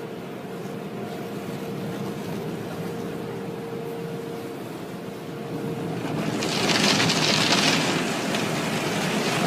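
Car wash machinery running with a steady hum, then a loud spraying hiss starts about six seconds in and holds.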